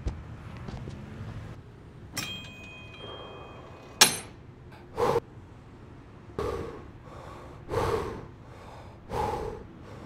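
Metal weights clink once with a short ring, then clank sharply, the loudest sound here. Then a man lifting weights breathes out hard and noisily, once every second and a half or so, in time with his reps.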